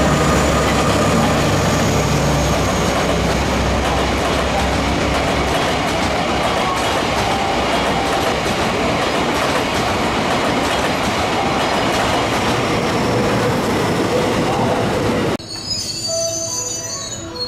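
A DE10 diesel-hydraulic locomotive passes close by with its engine running. It is followed by the steady rolling of a long rake of unpowered new EMU cars on the rails. About fifteen seconds in, the sound cuts abruptly to a much quieter scene.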